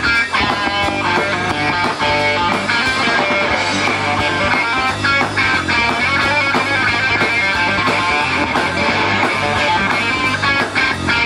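Live rock band playing with guitar prominent over a steady drum beat, and no singing.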